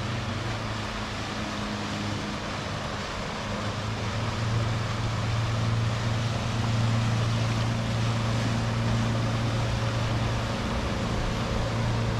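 Outboard motor running at cruising speed, short of full throttle, as a steady hum over the rush of wind and water past the moving boat; it grows louder about four seconds in.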